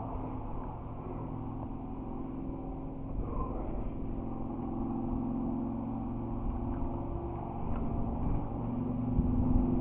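Steady engine hum, growing louder near the end.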